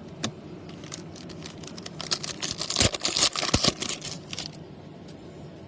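Foil trading-card pack wrapper being torn open and crinkled: a few light clicks, then a dense crackling run of about two and a half seconds starting about two seconds in.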